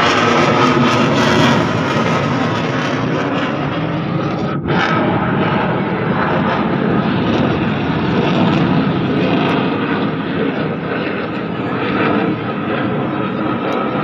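Aircraft flying over at an air show, a loud steady engine noise that lasts throughout.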